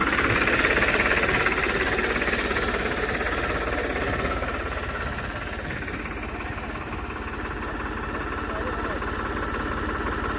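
Diesel tractor engine running hard under load, with a fast knocking beat. It is loudest over the first few seconds, then eases off.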